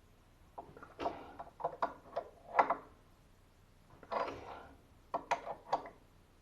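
Irregular hard clicks and knocks with a short scrape about four seconds in: plumbing tools and valve parts being picked up, set down and fitted by hand.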